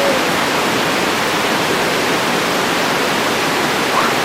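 Steady rushing of a fast mountain river, the White River running over rocks.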